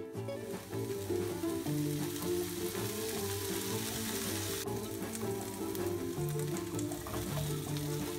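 Chopped spring onion, chilli and garlic sizzling as they fry in a non-stick frying pan; the sizzle is stronger at first and eases a little about halfway through. Background music with a steady bass line plays under it.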